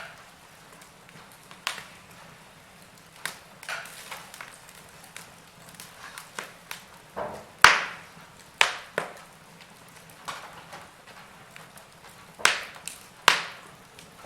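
Wood fire crackling in a fireplace: irregular sharp pops and snaps over a faint hiss, the loudest pop about halfway through.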